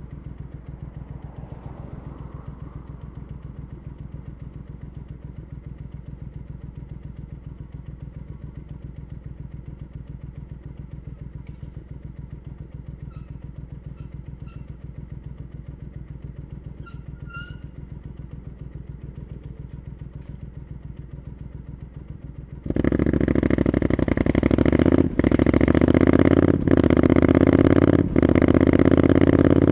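Triumph Scrambler 900's parallel-twin engine through an Arrow exhaust idling steadily, then suddenly much louder about 23 seconds in as the bike pulls away and accelerates, the note rising with three brief dips where it shifts up.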